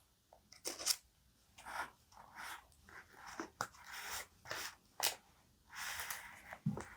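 Paper and stationery being handled while journaling: a series of short rustles and scrapes, with two sharp ticks and a soft thump near the end.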